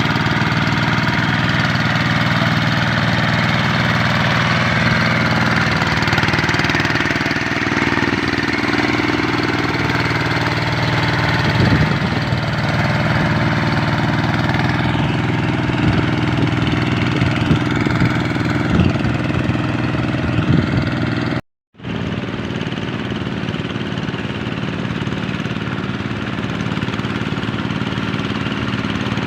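Kubota RD 85 DI-2S single-cylinder diesel on a two-wheel hand tractor running steadily, with one brief dropout about three-quarters of the way through.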